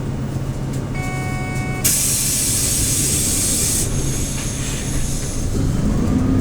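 Hyundai New Super Aero City CNG city bus at a stop, its engine idling low underneath. About a second in a short electronic tone sounds, followed by a sudden loud blast of compressed-air hiss from the bus's air system that lasts about two seconds and then tails off.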